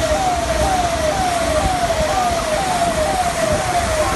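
Siren sounding in a quick repeating falling tone, about two sweeps a second, over a loud steady hiss of noise.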